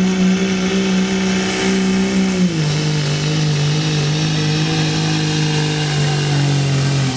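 Turbocharged diesel truck engine held at full throttle under load while pulling the sled, with a thin high turbo whine over it. About two and a half seconds in, the engine note drops to a lower steady pitch and holds there.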